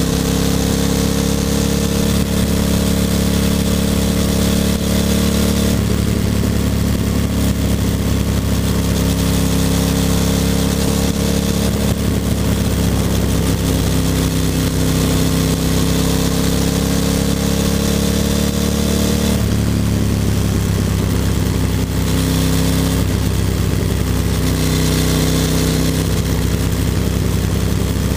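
Ducati Monster 620's air-cooled V-twin engine running under way, heard from the bike itself, with a steady rush of wind noise. The engine note shifts abruptly about six seconds in and again near twenty seconds.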